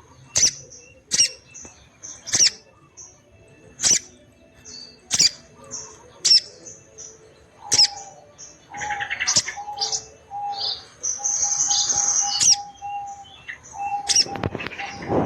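A sogon bird calling vigorously: sharp, high chirps repeating about once a second, turning into denser, busier calling with a steady held tone about halfway through.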